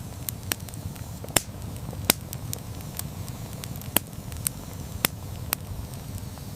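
Wood campfire burning with a steady low rumble of flame and irregular sharp crackles and pops, the loudest a few seconds apart.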